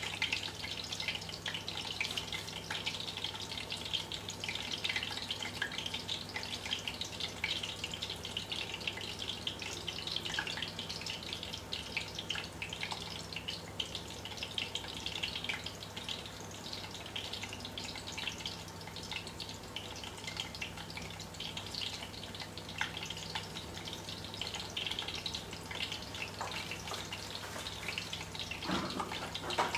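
Aubergine slices frying in hot oil in a stainless steel pan: a steady sizzle of fine crackling pops, over a low steady hum.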